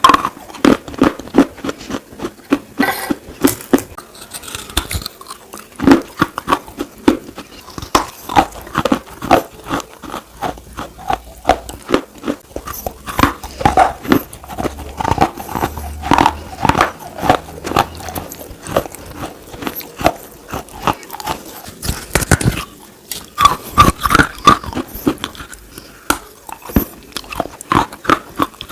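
Pieces of slate being bitten and chewed: a rapid, irregular run of sharp crunches, one after another.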